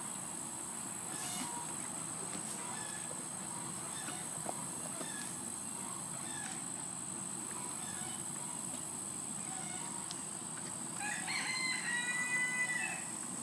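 A rooster crows once, a multi-part call about eleven seconds in, over a steady high-pitched background hum and scattered faint chirps.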